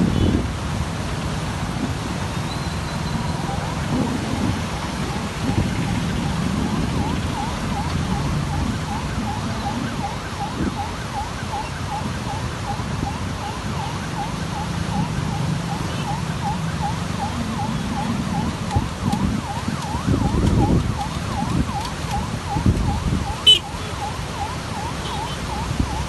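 Steady roar of rushing floodwater from the swollen Godavari river. A faint warbling siren repeats evenly underneath from about a quarter of the way in.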